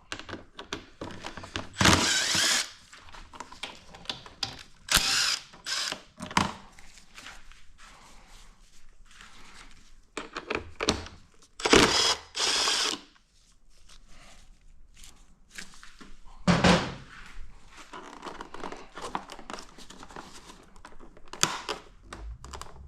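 Motorcycle plastic side panels and their fasteners being worked loose by hand: irregular knocks, clicks and scrapes, with several short, louder mechanical bursts of around a second each.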